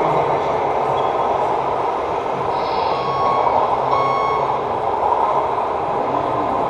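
Electronic sound units of 1:14 scale RC trucks playing truck engine sounds, with short reversing beeps coming and going over a steady din.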